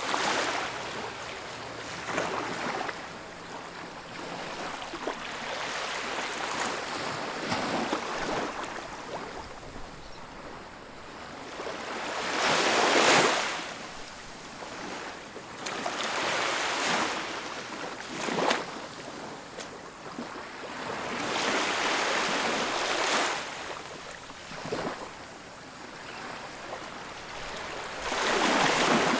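Ocean waves breaking and washing up on a beach, a hiss that swells and fades every few seconds, the biggest wave crashing about halfway through.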